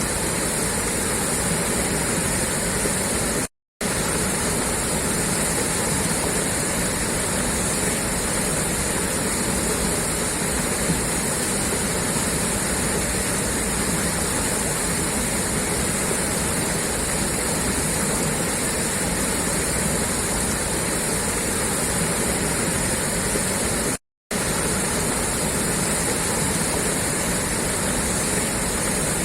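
Water gushing steadily out of a pipeline outlet, an even rushing and splashing. It drops out to silence for a split second twice.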